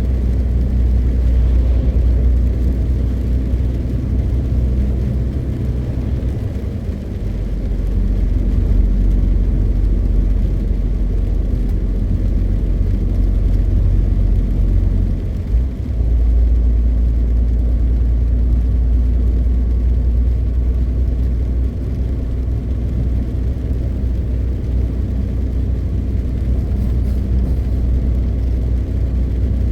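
MAN TGX 520 truck's six-cylinder diesel engine running steadily on the road, a deep drone with road rumble. It eases off briefly about seven seconds in and dips for a moment about halfway through.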